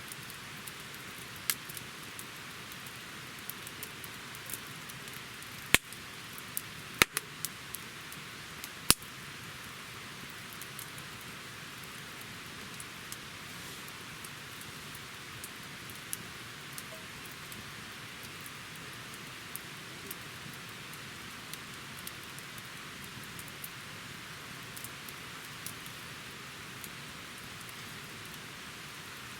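Wood campfire burning with a steady hiss and scattered crackles, and three sharp loud pops about six, seven and nine seconds in.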